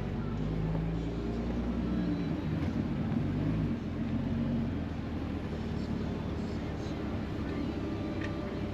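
A vehicle engine running steadily at low speed, its low note easing slightly a little under four seconds in.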